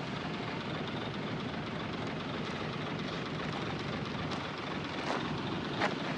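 Heavy diesel earthmoving machinery running steadily, with a couple of short sharp knocks near the end.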